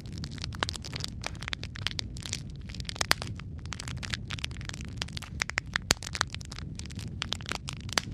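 Wood fire of burning logs crackling, with irregular sharp pops over a steady low rumble of the flames; a few louder snaps stand out, about three seconds in, about six seconds in and near the end.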